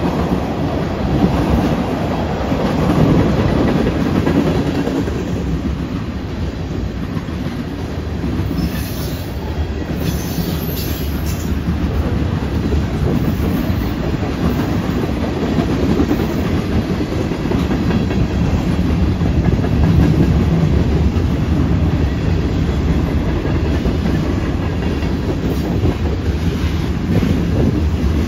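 Freight train of tank cars and covered hopper cars rolling steadily past, a continuous rumble of steel wheels on rail.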